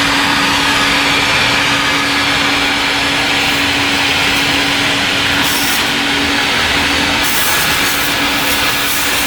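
Self-serve car wash high-pressure pump and spray wand running: a loud, steady rushing noise over an even hum, with a brighter hiss coming in about seven seconds in.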